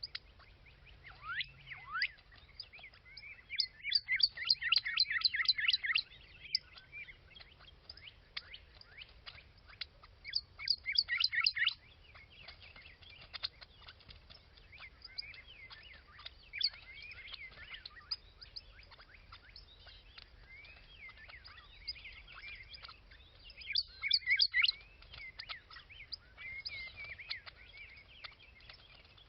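Small birds chirping and calling, with three loud runs of fast repeated trilling notes among scattered softer chirps.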